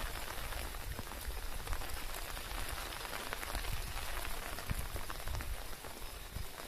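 Steady rain falling, with many small drop hits.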